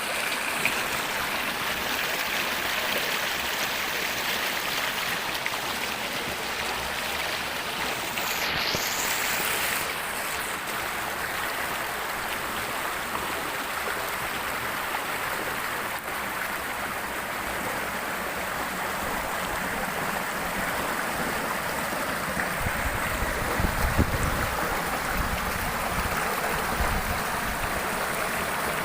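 River water flowing steadily over rocks, an even rushing sound. Brief low rumbling about three-quarters of the way through.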